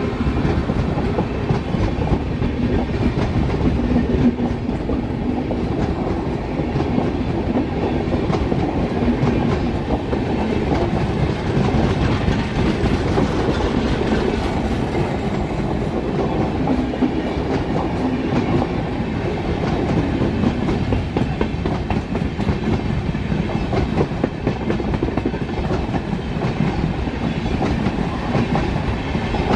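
Passenger coaches of an express train rolling past, a steady heavy rumble with the dense clickety-clack of wheels on the rails.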